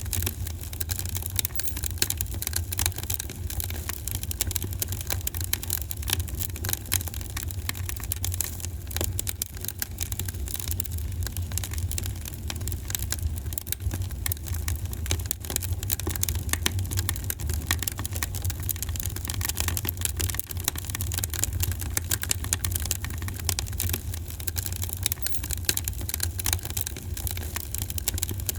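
Wood fire in a fireplace crackling, with many small pops and snaps over a steady low rumble of the burning flames.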